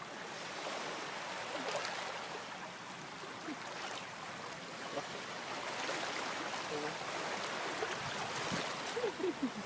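Steady rushing wash of water, like surf or a stream, with a few brief high gliding sounds near the end.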